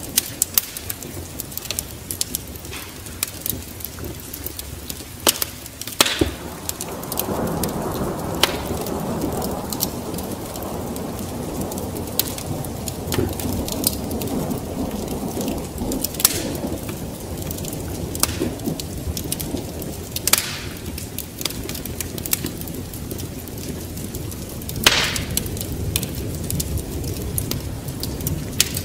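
Wood fire crackling, with sharp pops scattered throughout, over steady rain. About seven seconds in, a low rumble of thunder swells and lingers.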